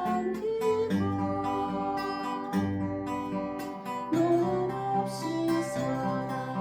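Acoustic guitar strummed and picked through the chords of a song.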